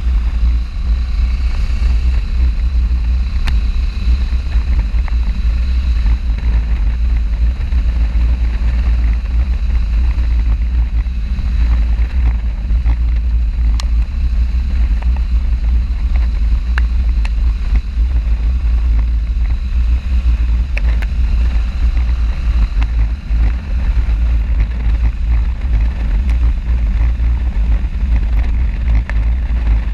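Motorcycle moving at speed: a steady, heavy low rumble of wind buffeting the camera's microphone covers the bike's running noise.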